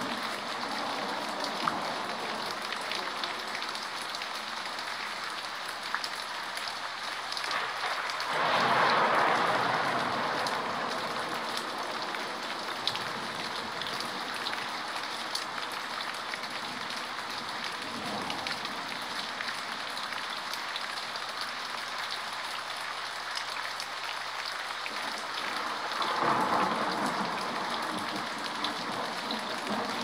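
Steady rain falling, with scattered sharp drop clicks. The downpour swells louder for a couple of seconds twice, about eight seconds in and again near the end.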